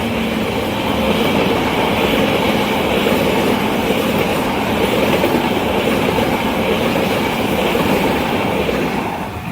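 Railway train cars passing close by at speed, with a steady rumble and clatter of steel wheels on the rails.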